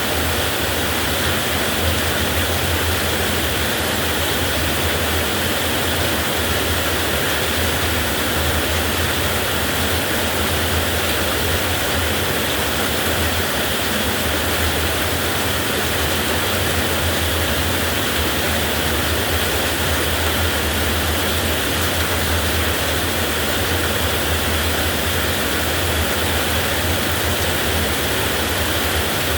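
Heavy rain falling steadily, a dense even hiss that does not change.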